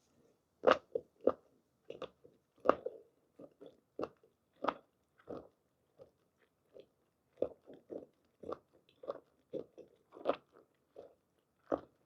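Close-miked chewing of tender boiled squid: short, wet, rhythmic chews about two to three a second, with a brief pause about halfway through.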